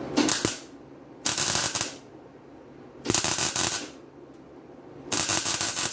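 Arc welder making four short tack welds on an exhaust hanger bracket: bursts of crackling sizzle, each under a second, with pauses between.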